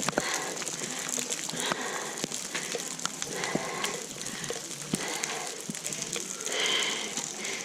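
Scattered sharp clicks and taps over a steady hiss, typical of footsteps on a rocky trail.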